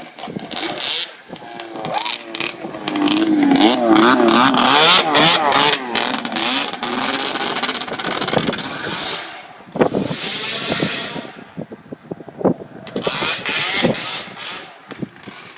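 Straight-piped Ski-Doo Mach 1 snowmobile's two-stroke engine revved again and again, its pitch wavering up and down, so damn loud. The longest, loudest run of revs is in the middle, followed by a few shorter blips near the end.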